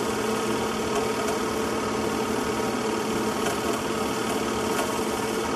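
A steady mechanical hum with hiss, even and unchanging throughout.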